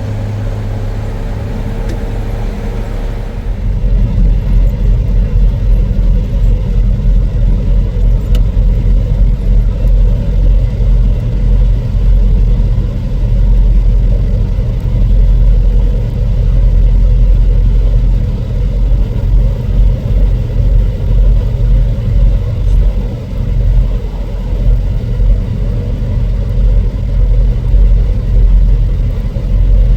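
A motor vehicle driving, with a steady low engine and road rumble that grows louder about three and a half seconds in.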